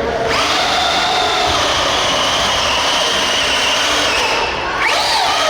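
Radio-controlled pulling vehicle's motors and drivetrain whining under load: the pitch shoots up just after the start, holds high while sagging slowly for about four seconds, drops away, then rises briefly again near the end.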